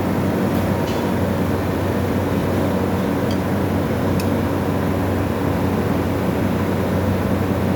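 Refrigerator compressor motor powered on but jammed, giving a steady electrical hum with a few faint ticks. The mechanical jam keeps it from starting and running.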